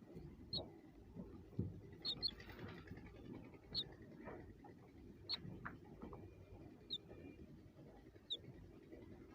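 Small bird giving short, high, thin chirps, one every second or so, with soft rustling and light clicks underneath.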